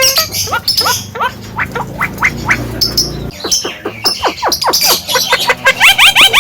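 Javan myna (jalak kebo) calling: a string of short rising whistled notes, about four a second. Near the end it breaks into a louder, faster run of the same rising notes.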